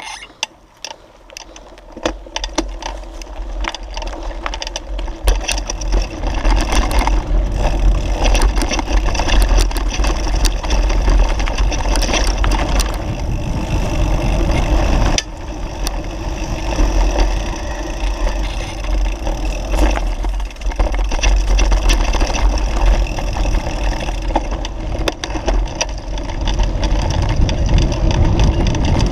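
Wind buffeting the microphone in a heavy low rumble, with the rattling and knocking of a bicycle rolling downhill.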